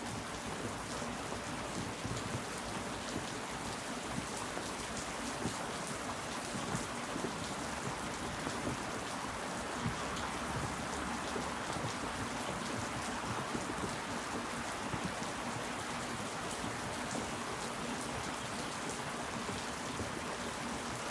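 Steady rain falling, with many fine individual drop ticks over an even hiss.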